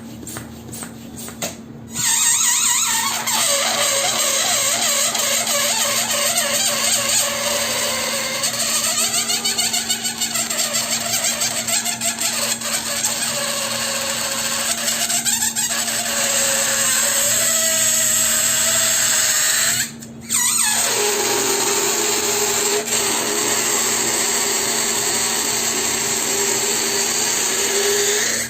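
Air rushing out through the neck of an inflated balloon: a long hissing release with a squealing tone that wavers in pitch, starting about two seconds in. It breaks off briefly about two-thirds of the way through, then a second release follows with a lower, steadier squeal.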